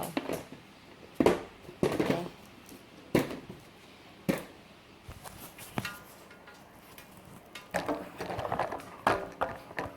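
Scattered sharp knocks and clatters of hard plastic toys being handled and set down, one roughly every second.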